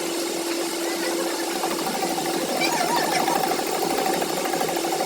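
A machine running steadily, with a steady hum under a busy mechanical clatter.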